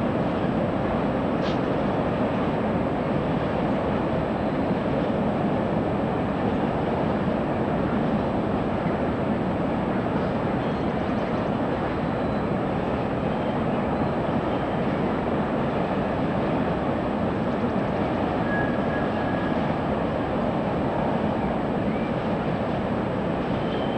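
Trains rolling slowly through a large railway yard, a steady, even rumble with no distinct events.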